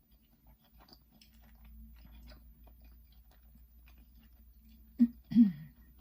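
A person chewing a McDonald's double cheeseburger close to the microphone, with soft scattered chewing clicks. About five seconds in come two short, louder vocal sounds, the second falling in pitch.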